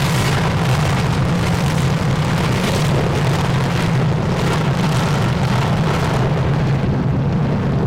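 Jet aircraft taking off at full engine power: a loud, steady jet noise.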